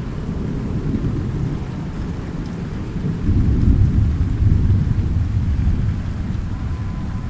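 Low thunder rumbling under steady rain. The rumble swells about three seconds in, then slowly dies back.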